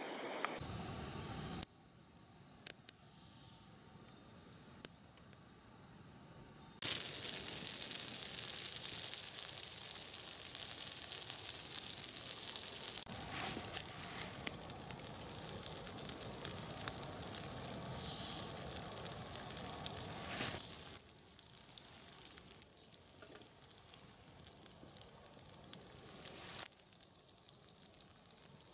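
Potato slices sizzling as they fry in a pan over a small tin-can wood stove, with a scatter of small sharp clicks. The sizzle drops and rises in loudness abruptly several times and is loudest through the middle stretch.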